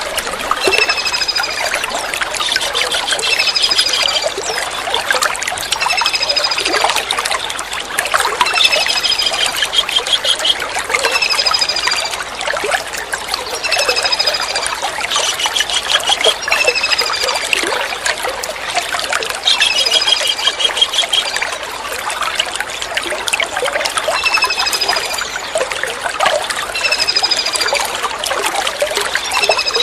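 Kingfisher calls: short, high, falling whistled notes and a rapid trill, repeating every few seconds. Under them runs a steady trickle of running water.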